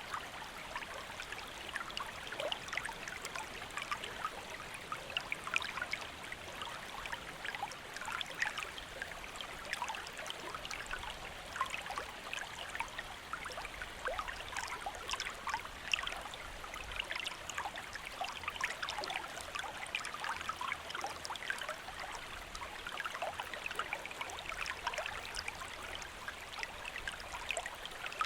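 Small stream or river flowing over rocks: a steady babble of running water with many small splashes and trickles.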